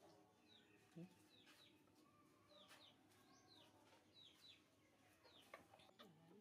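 Faint chirping of small birds: short, high chirps that fall in pitch, repeated about every half second, with a few faint clicks and one short low sound about a second in.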